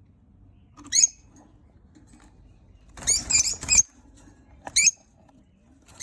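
Lovebird chicks giving high-pitched squeaky calls: one short call about a second in, a quick run of several calls around the middle, and another short call near the end.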